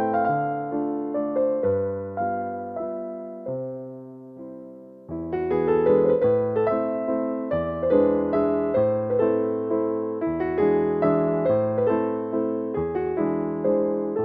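Piano music: a melody of struck notes over held bass notes. It thins out and grows quieter about four seconds in, then comes back fuller a second later.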